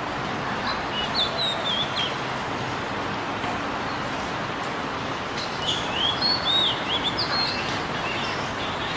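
Oriental magpie-robin giving short whistled chirps that bend up and down, in two bursts, one about a second in and one around six seconds in, over a steady background hiss.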